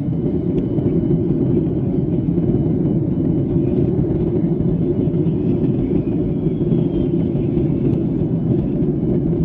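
Cabin noise inside a Boeing 737-800 airliner: a steady low rumble of engines and rushing air, with no change in pitch or loudness.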